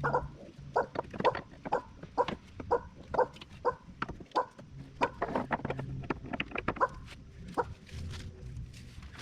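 Ratchet strap being cranked tight, its ratchet clicking about twice a second in a steady series that thins out near the end. The strap is being tightened to hold up the fuel tank.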